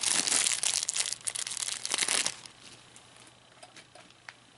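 Crinkling of a bag being rummaged through for a replacement 10-tooth plastic gear, for about two seconds, followed by a few faint small clicks.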